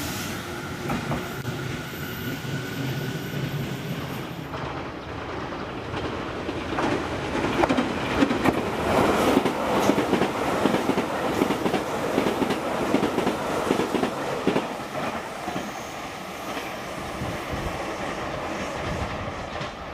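Freight train behind a JR Freight ED76 electric locomotive rolling over rail joints and points, with the wheels clattering and clicking. The clatter swells about a third of the way in and eases off towards the end.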